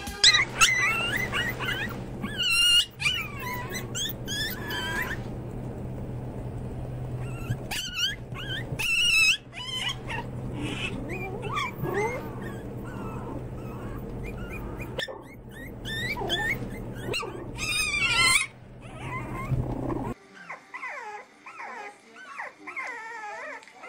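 White Pomeranian dogs and puppies yipping in short, high-pitched clusters. About twenty seconds in this gives way to quieter, wavering whimpers and squeaks from a litter of young French bulldog puppies.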